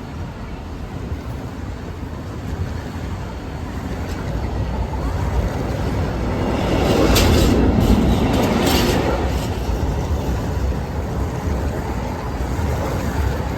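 A vehicle passing close by over a steady low rumble, growing louder to a peak about seven to nine seconds in with a few sharp clicks, then fading.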